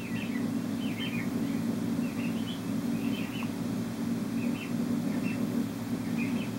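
Steady low hum with short, faint bird chirps about every second.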